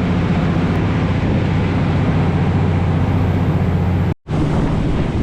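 A prawn trawler's engine running steadily, a low hum over a wide wash of noise. It cuts out abruptly for a split second about four seconds in, then carries on.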